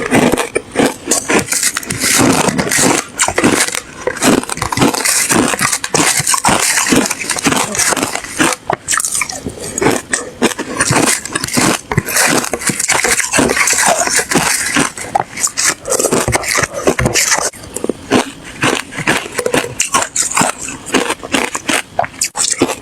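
Ice being bitten and chewed close to the microphone: a dense, loud run of sharp crunches and cracks, with brief pauses between bites.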